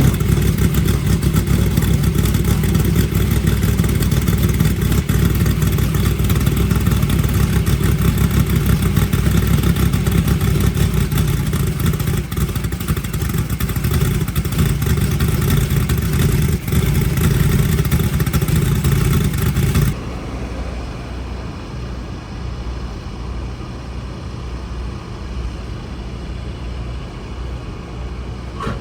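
A race engine running loudly with a rapid pulsing beat. About twenty seconds in it cuts off abruptly, leaving a quieter steady noise.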